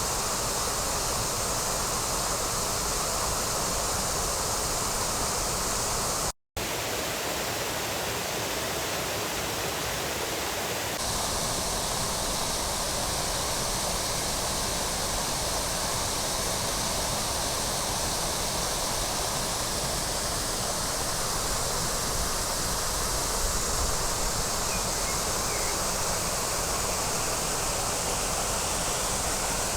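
Waterfall rushing steadily, an even roar of falling water. It drops out for a split second about six seconds in.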